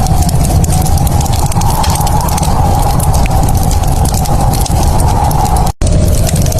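Wood fire crackling in a fireplace, a dense run of small pops and snaps over a steady low rumble. The sound cuts out for an instant near the end.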